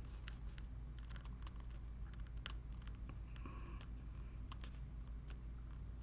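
Faint, scattered clicks and taps of plastic action-figure parts being handled and pressed together, as a head peg is fitted into its socket.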